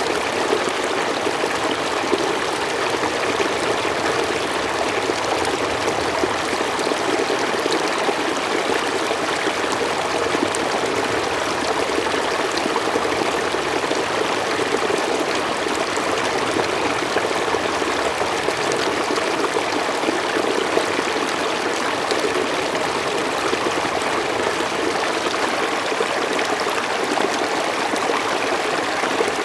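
Mountain stream flowing steadily over rocks, a continuous even rush with some trickling.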